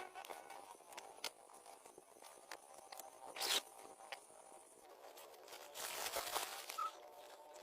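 Close handling noises: scattered small clicks and taps, with a short rasping scrape about three and a half seconds in and a longer one around six seconds.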